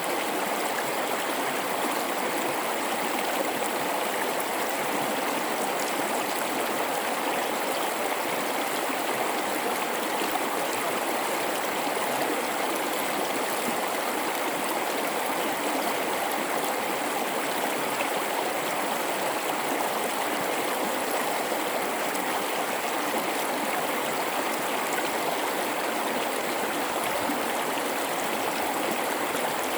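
River flowing through a rocky gorge: a steady rush of water over rocks, with small gurgles and splashes mixed in.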